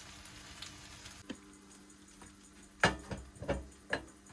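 Cooking in a small kitchen: a faint sizzle from the pan fades after about a second, then comes a quick run of four or five knocks and clatters of cookware and utensils.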